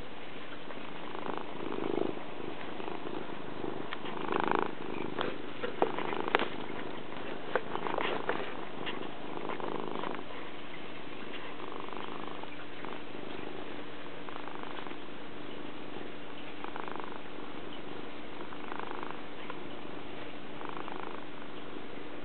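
Domestic cat purring steadily, swelling softly about every two seconds with its breathing. A handful of sharp clicks or taps come between about four and nine seconds in.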